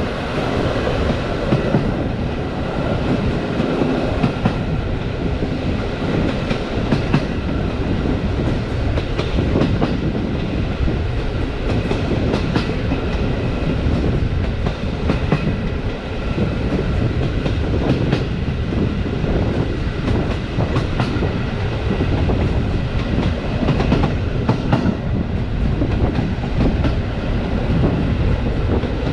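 Passenger carriage running on the track, heard from the carriage window: steady rumble of the wheels with irregular clicks and knocks from the rail joints, and a faint steady whine above.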